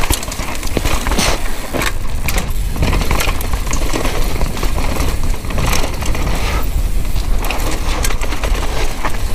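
Downhill mountain bike ridden fast over a rough trail, heard from a bike- or rider-mounted action camera: a constant clatter of tyres over dirt and rocks, chain and frame rattling, with wind rumbling on the microphone.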